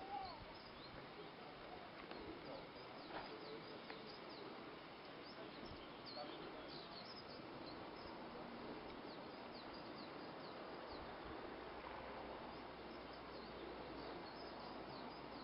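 Faint outdoor ambience: small birds chirping, many short high calls scattered over a low steady background hiss.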